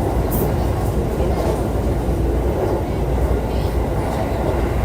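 Running sound of a JR East E531 series electric train heard from inside the car: a steady rumble of wheels on the rails.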